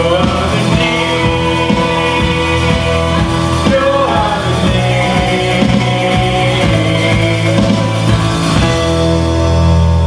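Live worship band music: a steady drum beat over sustained chords. The drums stop near the end, leaving only the held chords.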